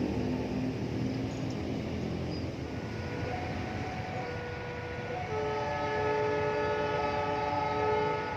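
Train moving through a railway station: a low rumble at first, then from about three seconds in several steady high tones sounding together, coming and going.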